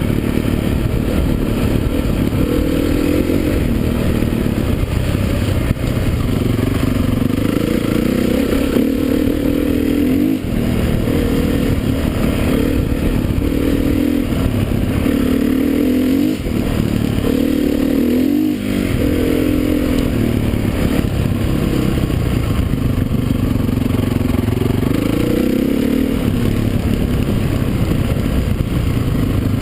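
Motocross dirt bike engines running hard, the note climbing and dropping again and again as the throttle is worked.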